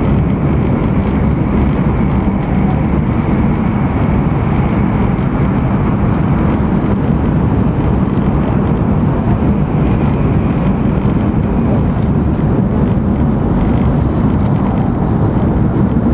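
Steady running noise inside the passenger cabin of an E2 series Shinkansen travelling at speed: a dense, even low rumble with a faint high whine over it.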